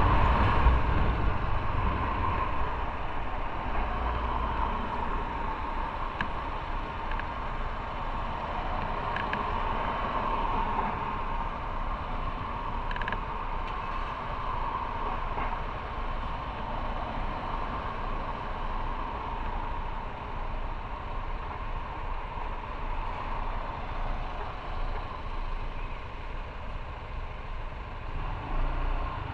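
Motorcycle running on the road, steady engine and road noise, louder in the first couple of seconds and then settling lower.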